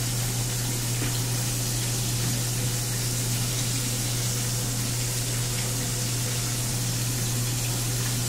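Steady sizzling hiss of fish frying in hot oil, with a steady low hum underneath.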